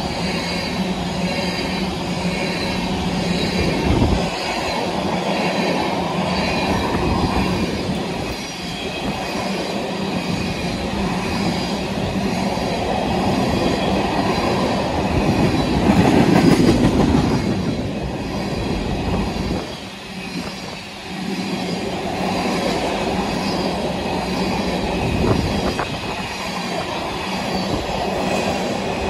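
A freight train of empty oil tank cars rolling steadily past at speed: a continuous rumble and clatter of steel wheels on the rails, with a faint high wheel squeal and an occasional sharp knock.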